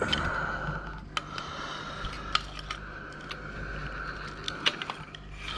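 A small electric motor whirring at a steady pitch in two runs, with a short break about a second in, over scattered clicks of hard parts being handled.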